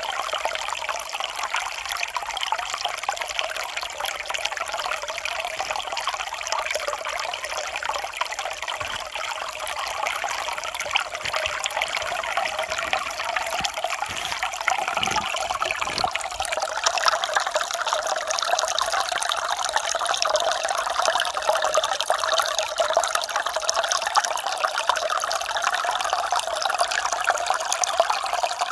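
Mountain stream water running and trickling over rocks, a steady rushing babble. About halfway through, the sound changes character and grows a little louder.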